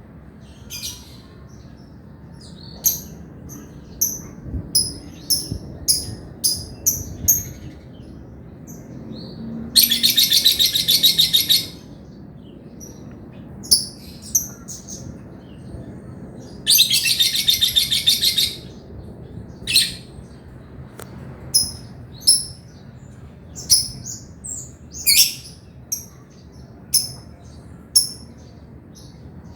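Male lovebird singing: sharp, high chirps at uneven intervals, broken twice by a fast rattling trill lasting about two seconds, the long 'ngekek' call.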